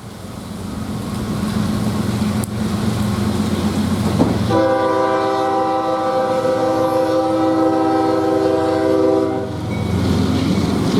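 A train rumbling as it draws closer, then its locomotive air horn sounds a long chord-like blast about four seconds in, lasting about five seconds. A second horn blast begins near the end.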